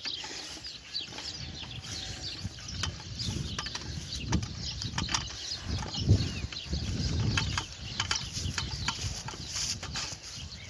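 Small birds chirping many times in quick short calls, over an uneven low rumble that swells in the middle.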